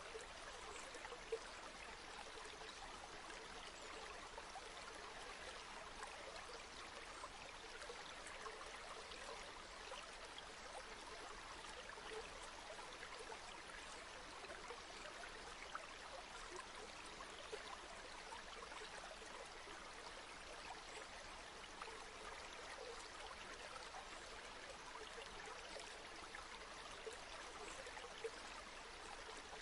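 River water flowing: a steady, even rush with scattered small splashes and ticks.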